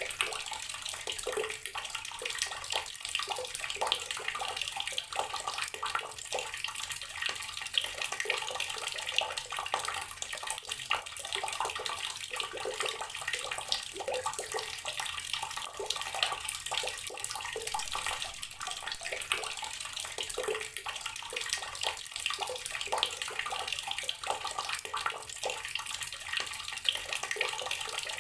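Water tap running steadily, a stream splashing and spattering into a basin or tub.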